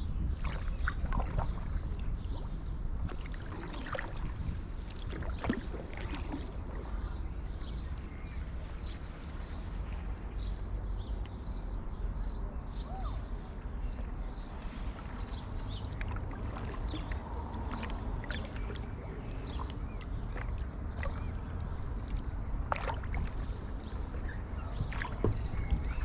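Stand-up paddleboard paddle dipping and splashing in canal water in an irregular rhythm of strokes, with a steady low wind rumble on the microphone. A bird calls in short high notes repeated over and over through much of it.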